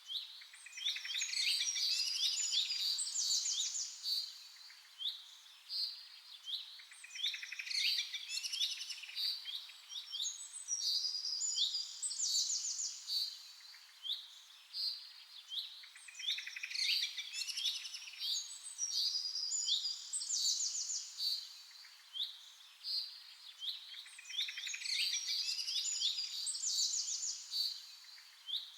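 Songbirds chirping and singing: a steady run of short high chirps, broken every several seconds by bursts of fast trilling song.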